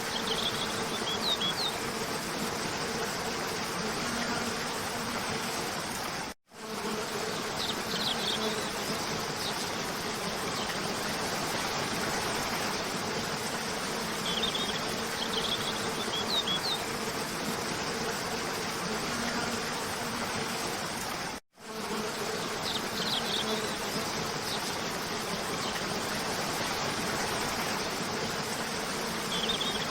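Waterfall rushing steadily, with short high bird chirps every few seconds and a low steady buzzing hum beneath. The sound cuts out for a moment twice, about fifteen seconds apart.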